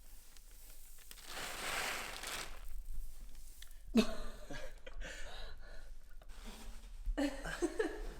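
Rustling of a plastic bag, a swell of crinkling that builds and fades over about two seconds, followed by short bursts of voice about halfway through and again near the end.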